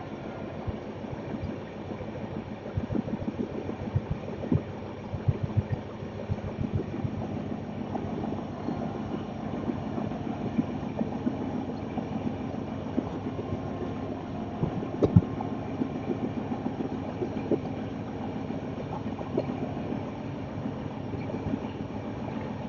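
Passenger train running along the track, heard from inside the coach: a steady rumble with irregular clacks and knocks from the wheels and running gear.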